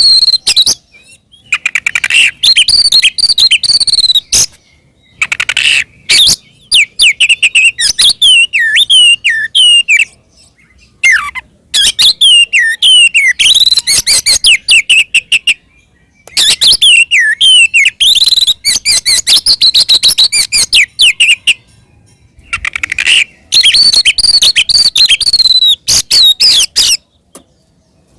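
Oriental magpie-robin (kacer) singing loud, full fighting song: fast chattering trills mixed with whistled notes that slide up and down, in phrases broken by short pauses.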